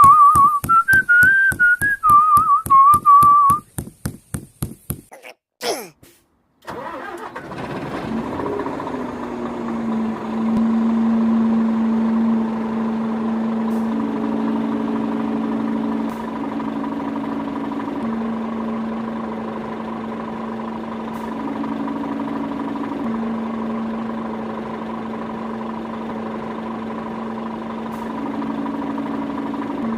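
A whistled tune over strummed guitar for the first few seconds. After a short gap, an engine sound starts and runs steadily, its pitch stepping up briefly several times.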